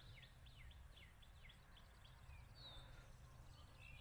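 Faint songbird singing: a quick run of high, down-slurred chirps, about four a second, that stops about two seconds in, followed by a few scattered calls. A low steady rumble lies underneath.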